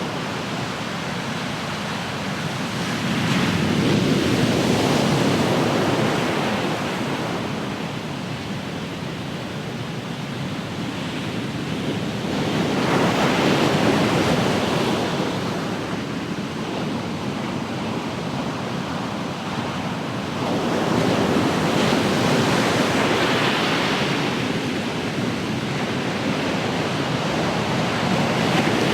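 Ocean waves breaking and washing on the shore, swelling and easing about every eight to ten seconds, with some wind on the microphone.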